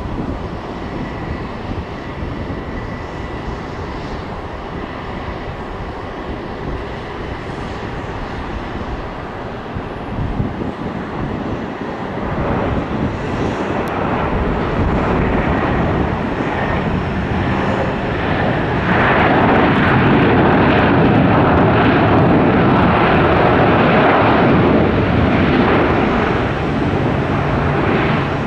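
Jet airliner engines rushing as an aircraft passes. The noise builds from about twelve seconds in, is loudest about two-thirds of the way through, then eases slightly.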